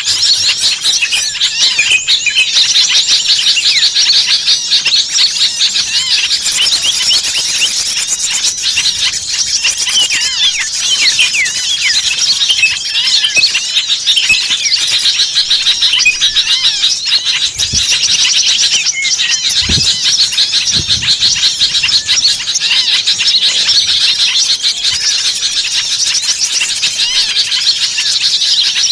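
Dense, continuous chorus of many small songbirds chirping and twittering over one another, all high-pitched: a noisy mixed-flock bird-lure recording.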